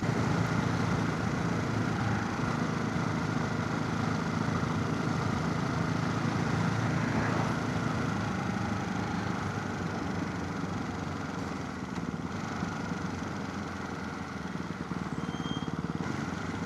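Motorcycle engine running at a steady cruise, heard from the rider's chin-mounted camera with wind rushing over the microphone.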